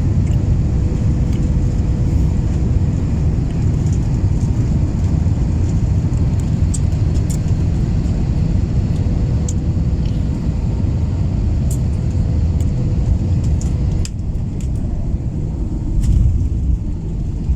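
Airliner cabin noise during the descent: a steady, loud low rumble of engines and airflow heard from inside the cabin, with a faint steady hum running through it.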